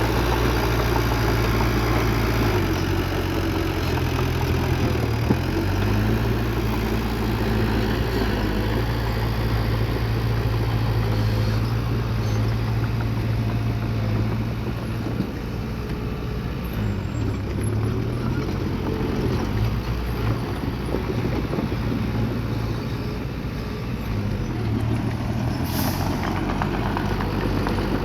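Bulldozer's diesel engine running steadily under work, its pitch shifting now and then as the load and throttle change. A short high hiss sounds near the end.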